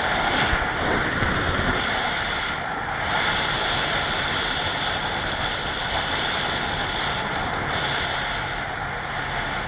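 Kawasaki Z900 inline-four motorcycle running steadily, with a constant rushing noise over the engine and a few low thumps in the first second.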